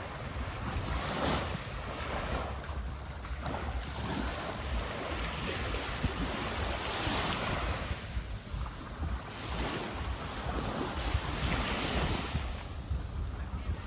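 Small sea waves washing onto a sand beach, swelling and falling back every few seconds, with wind buffeting the microphone as a low rumble underneath.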